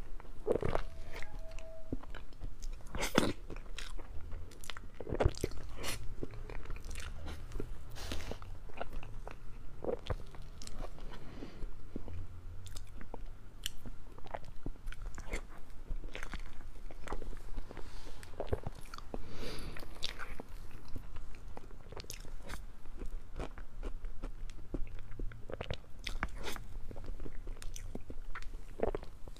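Close-miked chewing and wet mouth sounds of someone eating soft chocolate mousse cake by the spoonful, with scattered sharp clicks and smacks throughout.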